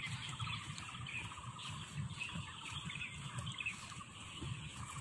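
Birds chirping faintly and intermittently over a low, uneven outdoor rumble.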